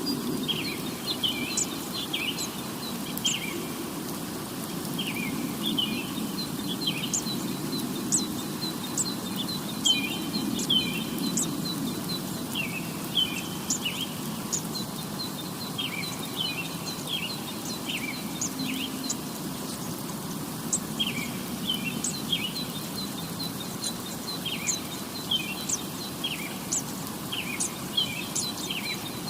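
Birds chirping in short, repeated phrases of a few notes every couple of seconds, with sharp high ticks, over a steady low background hum.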